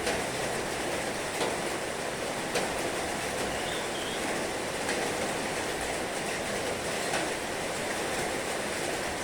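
Heavy rain falling steadily: an even hiss, with a few sharper drop hits now and then.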